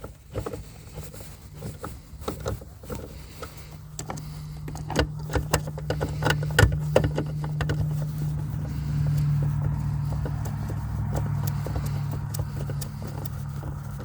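A steady, engine-like mechanical hum that grows louder toward the middle and then eases off, with light metallic clicks and taps from a socket being worked onto a taillight mounting nut.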